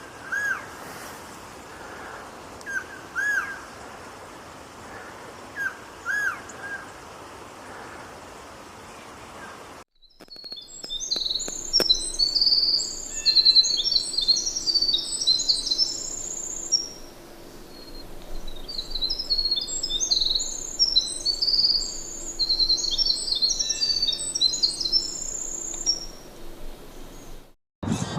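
Bird sounds in two sections: first, short mid-pitched calls, often in pairs, repeated every second or two over a steady background hiss; then, after a sudden cut about ten seconds in, a different bird's fast, complex, very high-pitched song in long rapid phrases.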